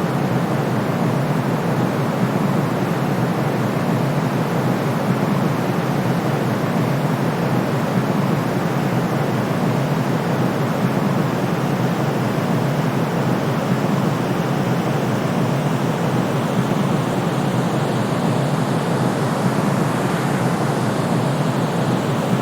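Steady, unchanging white noise, weighted toward low frequencies like a soft rushing hiss, with no rhythm or tones.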